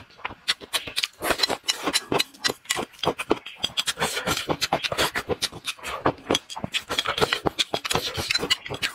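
Close-miked chewing and lip-smacking as a man eats a mouthful of rice and stir-fried crayfish-tail balls, a fast irregular run of smacking clicks.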